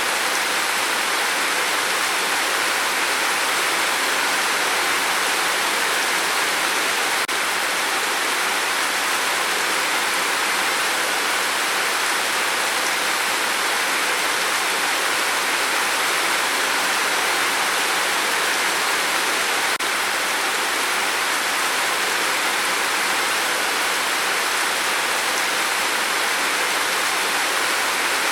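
Rain falling steadily on a tin roof: an even, unbroken wash of drops with no let-up.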